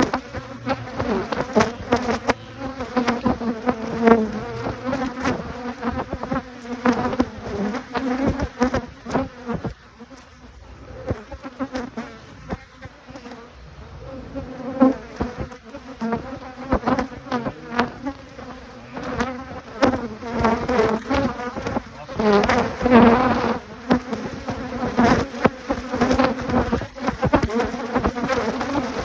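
A honeybee colony buzzing around an opened hive, the hum swelling and fading, with frequent short clicks over it.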